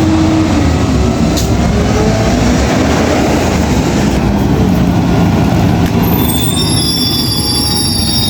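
Garbage truck running close by with a loud rumble and whining tones that rise and fall. About six seconds in, a high, steady squeal of several tones sets in.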